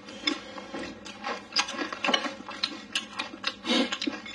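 Close-miked chewing of a mouthful of rice and braised pork: an irregular run of short, wet mouth clicks and lip smacks, several a second.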